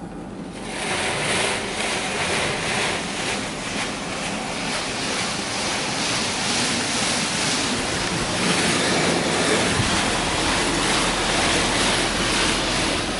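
D&S 5000 touchless car wash spraying high-pressure water onto a car, heard from inside the car as a steady hiss of water hitting the body. The spray comes on about half a second in and holds steady.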